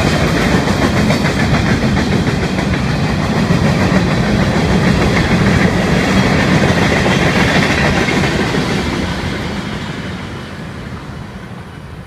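Freight cars of a long Florida East Coast Railway train rolling past with wheels clattering over the rail joints and a steady rumble, fading away over the last few seconds.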